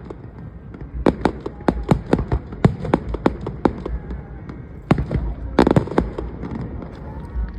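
Fireworks exploding in quick succession: sharp bangs several times a second over a low rumble. There is a short lull about four seconds in, then a dense cluster of crackling bangs near six seconds.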